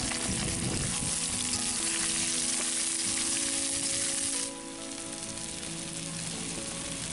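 Sliced onions sizzling as they fry in hot mustard oil in a kadhai, stirred with a metal spatula. The sizzle turns noticeably quieter about four and a half seconds in.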